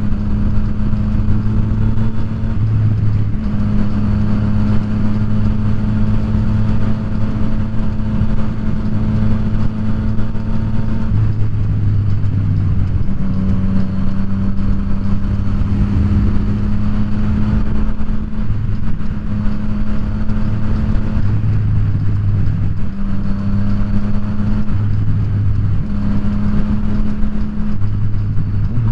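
Yamaha FZ-09's three-cylinder engine running at a steady cruise. Its note holds a mostly even pitch and breaks off briefly several times, with wind noise rushing underneath.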